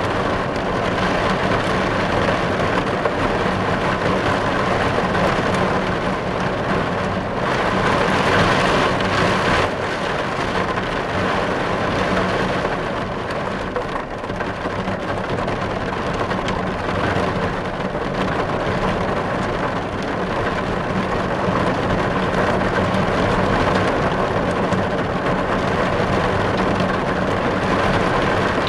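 Heavy rain falling on a car's windows and roof glass, heard from inside the car: a steady, dense patter that swells briefly heavier about eight seconds in.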